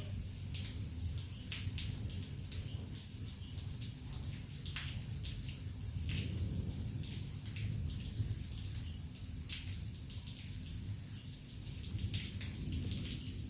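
Rain from a thunderstorm falling steadily, with many individual drops ticking sharply on a nearby surface over a steady low rumble.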